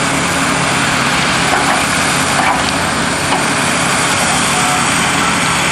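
Diesel engine of heavy demolition machinery running steadily, under a continuous crackling and crunching of wrecked building debris.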